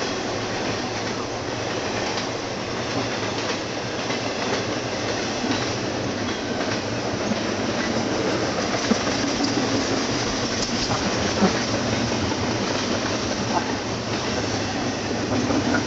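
Freight train rolling past, a steady rumble of railcar wheels on the rails with scattered clacks from the rail joints.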